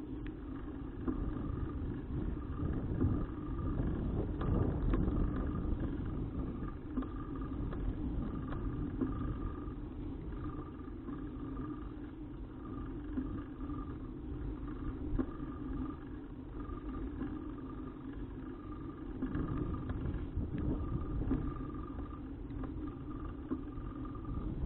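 Steady wind and road rumble picked up by a bicycle-mounted action camera while riding, with a faint short note repeating about every three-quarters of a second.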